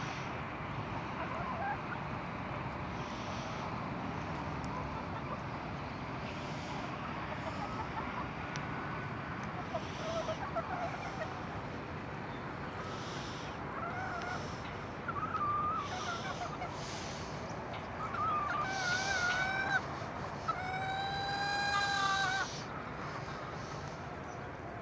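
Birds calling over a steady background hiss: scattered short pitched calls that grow louder and more frequent in the second half, then one longer call about three-quarters of the way through.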